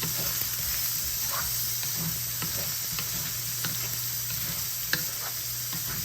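Potatoes sizzling as they fry in a pan, with a spatula scraping and clicking against the pan now and then as they are stirred, including one sharp tap about five seconds in.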